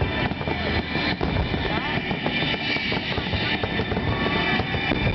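Fireworks finale: many aerial shells bursting in quick succession, with crackling between the bangs.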